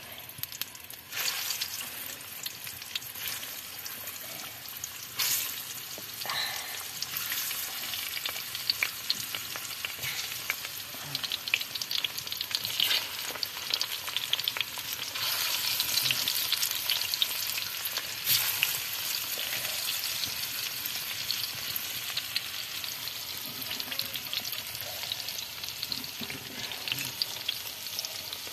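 Banana halves deep-frying in hot oil in a pan, with a steady sizzle full of fine crackles and several louder surges of sizzling, as more pieces go into the oil.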